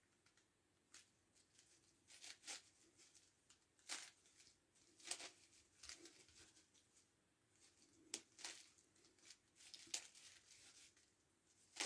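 9x9x9 Rubik's Cube being turned during a speedsolve: faint, irregular plastic clicks and scrapes of layers turning, roughly one to two a second.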